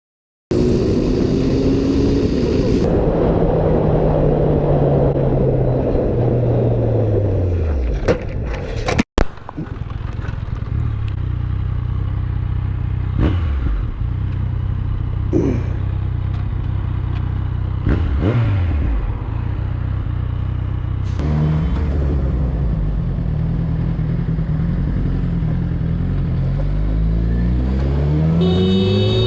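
Motorcycle engine running: it winds down in the first third, with a few sharp clicks and a brief dropout about nine seconds in, then runs at a steady low speed and revs up again near the end.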